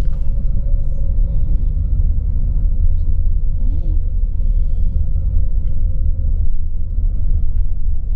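Steady low rumble of a tour coach's engine and tyres on the road, heard from inside the bus cabin.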